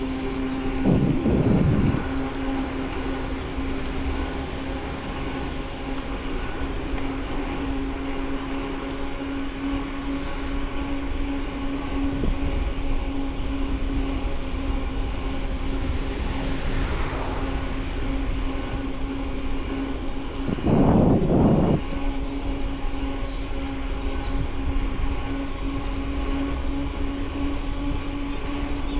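A steady mechanical hum runs over continuous rushing noise. Louder rattling bursts come about a second in and again about twenty seconds in.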